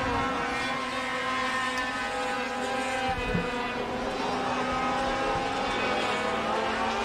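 Engines of several racing sport trucks running at speed on a short oval, their tones layered and fairly steady.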